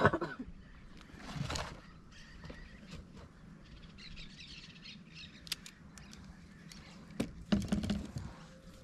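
Faint outdoor ambience with birds chirping, broken by a few brief noisy sounds about a second and a half in and again near the end.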